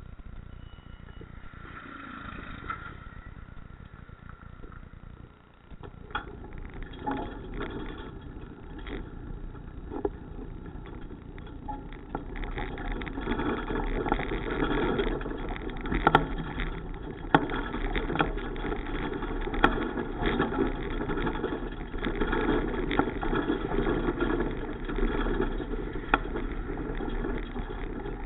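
Riding noise from a moving bicycle: a steady rushing of road and wind noise that grows louder about halfway through, with a few sharp clicks or rattles.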